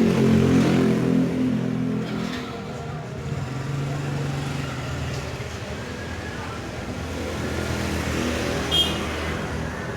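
A motor vehicle engine running close by, loudest in the first two seconds and then steadier, with a brief high-pitched blip about nine seconds in.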